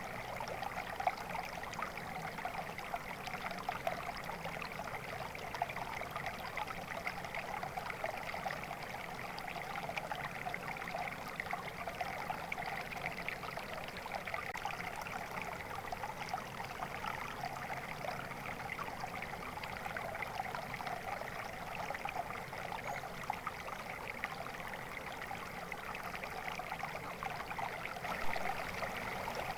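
A stream of water flowing steadily, with a constant burbling rush and small splashes throughout.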